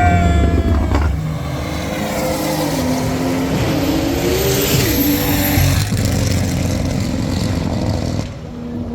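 Car engine revving through a loud exhaust with a deep rumble. The pitch climbs about three and a half seconds in and falls back a second later, and the sound drops off shortly before the end.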